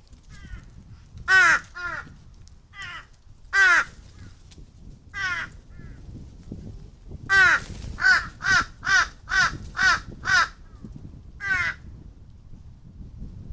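Crow cawing repeatedly: about a dozen harsh, pitched caws, with a quick run of six or seven about halfway through.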